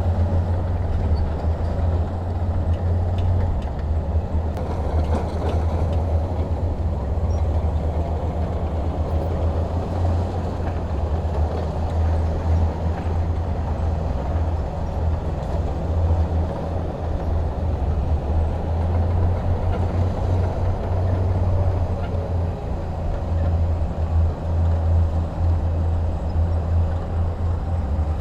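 Heavy diesel engine of earthmoving equipment running steadily with a deep low rumble.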